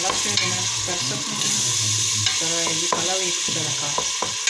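Minced meat sizzling as it fries in a pot, stirred with a wooden spatula that scrapes repeatedly across the bottom.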